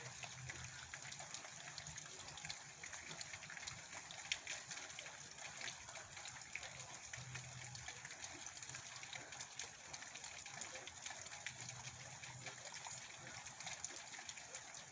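Steady heavy rain falling, a constant hiss dotted with the ticks of individual drops hitting a surface.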